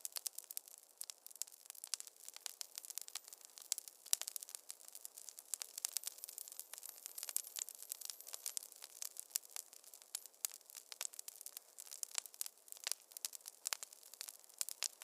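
Wood fire crackling in a fireplace: a dense, irregular stream of sharp pops and snaps over a soft hiss, with no low rumble.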